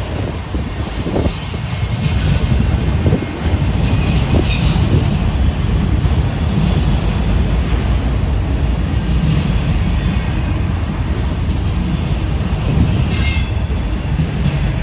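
Freight train of enclosed autorack cars rolling past close by, a loud steady rumble of steel wheels on rail, with a brief high screech of wheel on rail about four seconds in and again near the end.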